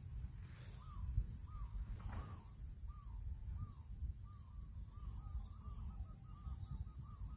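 A bird calling over and over: a short arched note about twice a second that speeds up into a quick run of notes near the end, over a steady low rumble.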